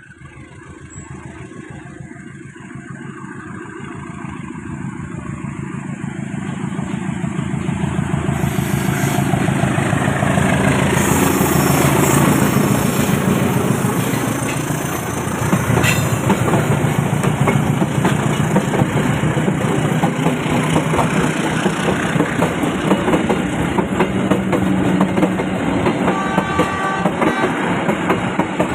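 A diesel locomotive-hauled train approaches, its engine growing louder over the first ten seconds or so, then passes close by with a steady, rhythmic wheel clatter over the rail joints.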